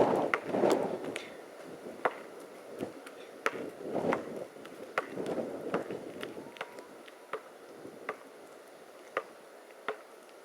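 Irregular sharp knocks and clicks, about one a second, over rough gusty noise that is louder in the first half.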